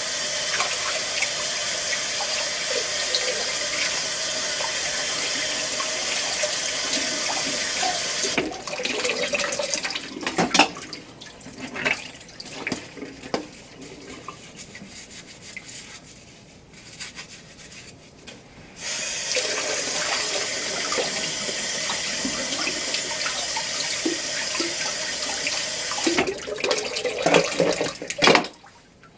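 Kitchen tap running steadily into a sink while dishes are washed by hand. The water stops about eight seconds in, leaving scattered clinks and knocks of dishes. It then runs again for several seconds, and a few dishes clatter near the end.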